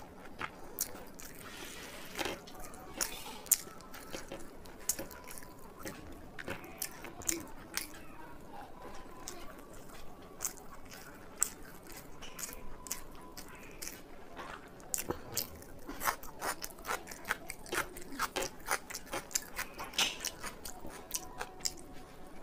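Close-miked eating: chewing and crunching food, a run of sharp crunchy clicks that come faster and denser in the second half.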